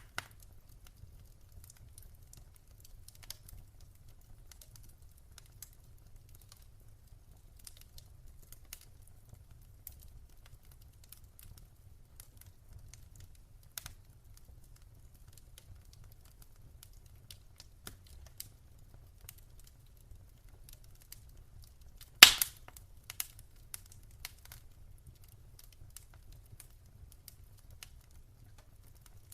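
Fireplace fire crackling: scattered small clicks and pops over a faint low rumble, with one loud, sharp pop about 22 seconds in.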